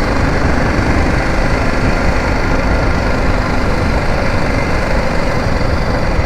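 BMW G 310 GS motorcycle's single-cylinder engine running steadily, with a dense low rumble and no change in pace.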